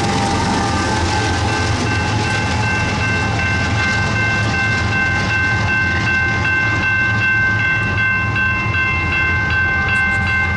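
Freight train rumbling steadily past with its trailing diesel locomotives and railcars, while a grade-crossing warning bell rings on in steady high tones from about a second and a half in.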